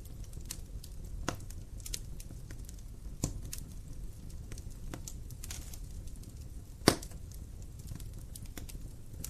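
Wood fire burning in a fireplace: a steady low rumble with irregular crackles of burning logs, and one louder pop about seven seconds in.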